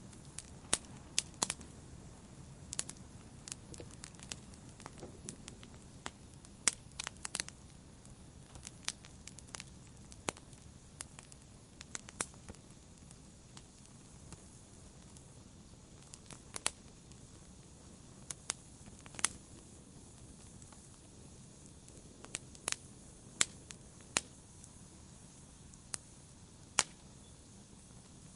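Wood fire burning in a fireplace: a low, steady rumble of flames with sharp, irregular crackles and pops, several coming close together early on and again around seven seconds in, then sparser.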